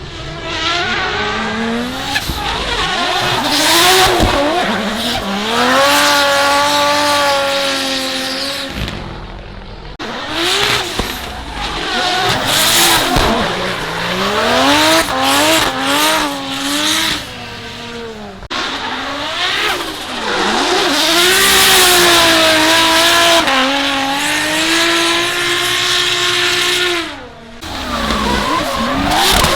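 Drift cars passing one after another on a wet track, their engines revving up and down with throttle blips and gear changes over the hiss of wet tyres. The sound drops out briefly about nine seconds in and again near the end.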